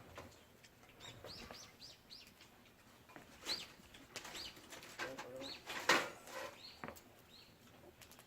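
A small bird chirping in short, high, repeated calls, a quick run of them about a second in and more scattered after, with light clicks and a brief clatter of tableware about six seconds in.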